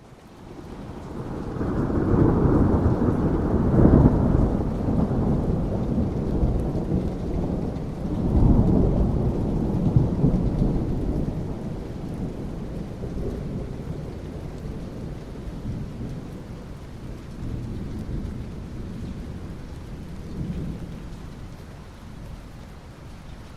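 Rolling thunder over steady rain. The rumble builds over the first couple of seconds and swells again about eight seconds in, then slowly fades, leaving the rain.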